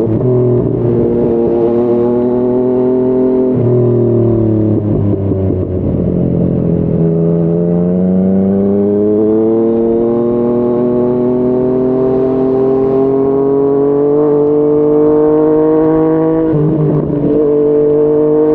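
Yamaha MT-09's three-cylinder engine through a Yoshimura R55 slip-on exhaust, running under way. Its note drops about three and a half seconds in, then climbs steadily for about nine seconds as the bike accelerates through the revs, and drops again near the end at a gear change.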